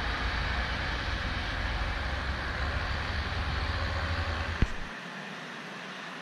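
Steady rushing of a distant passenger train rolling on the rails, mixed with heavy wind rumble on the microphone. About four and a half seconds in a sharp click cuts the rumble off, leaving a quieter even hiss.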